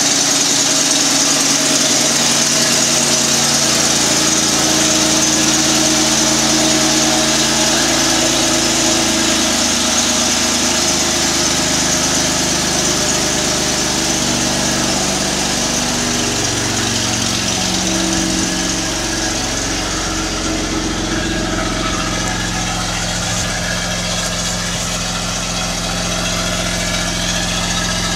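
A 2011 Jeep Wrangler's 3.8-litre V6, freshly fitted with a Prodigy turbo kit, idling steadily on its first start-up. Its idle pitch wavers and settles a little lower partway through.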